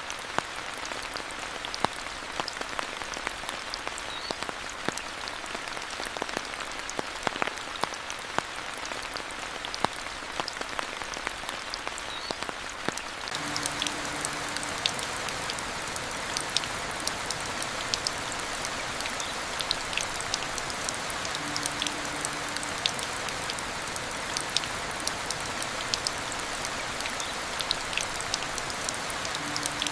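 Steady rain with many individual drops pattering and ticking. About a third of the way in the rain turns fuller and denser. After that a short, faint low tone recurs about every eight seconds.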